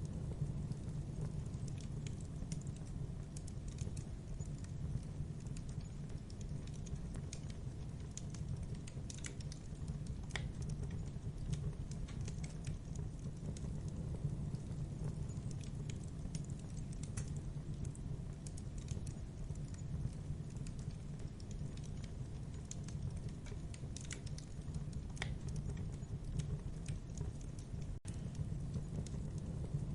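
Wood fire crackling in a fireplace: scattered small pops and snaps over a steady low rumble of the flames.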